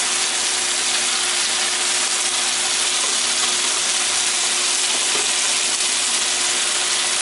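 Sliced bell peppers and onions sizzling in a hot skillet: a steady frying hiss with no pauses.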